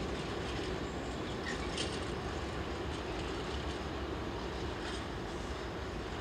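Empty timber wagons of a freight train rolling slowly away along a curved single-track branch line: a steady rumble that fades slightly, with a couple of faint brief squeaks from the wheels on the curve.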